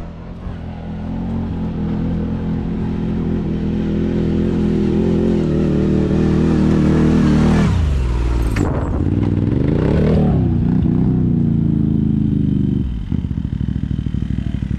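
ATV engine under throttle, its pitch climbing steadily for about seven seconds, then dropping sharply and revving up and down again. It settles to an even, pulsing idle near the end.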